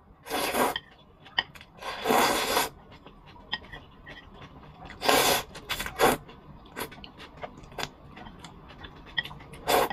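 Close-up eating sounds from a bowl of zhajiangmian noodles: about five short, noisy slurps, with small clicks of mouth and utensils between them.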